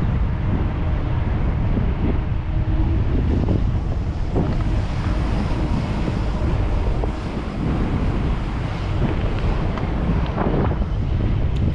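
Wind buffeting the microphone of a camera riding along on a moving bicycle: a loud, steady low rumble.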